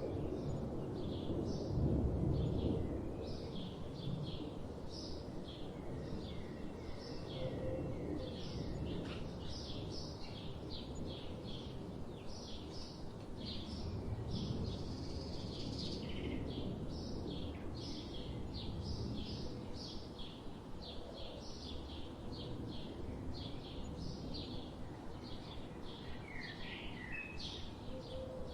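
Forest ambience: many small birds chirping rapidly and continuously, over a steady low rumble that swells briefly about two seconds in and again near halfway.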